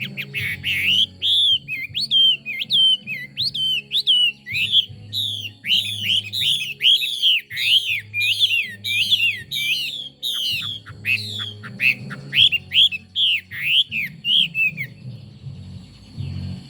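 Chinese hwamei singing a long, rapid run of loud whistled notes, many sliding down in pitch and repeated in quick phrases; the song stops about fifteen seconds in.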